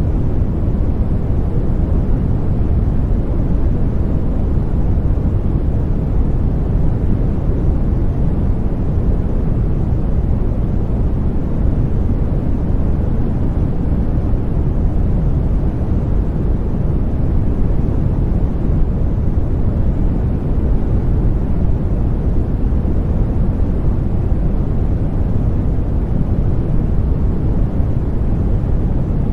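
Continuous white noise for baby sleep, steady and unchanging, weighted toward the low end so it sounds deep with little hiss.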